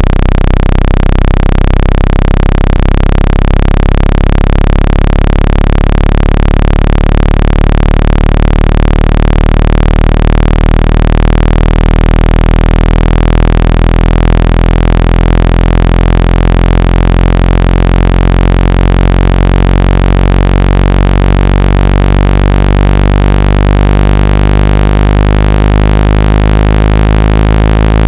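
Loud, steady low-pitched electronic tone with a dense buzz of overtones whose pattern shifts slowly. It is a speaker-cleaning tone, played to shake water and dust out of a phone's speaker.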